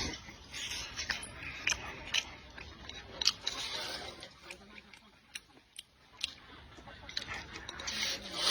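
Close-up eating sounds: chewing and mouth noises, with scattered sharp clicks and a few short hissy slurps.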